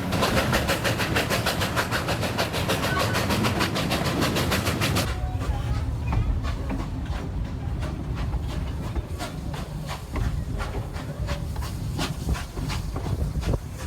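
Durango & Silverton narrow-gauge steam train running: a fast, even beat with hiss, which about five seconds in abruptly turns duller, to a low rumble with sparser clicks.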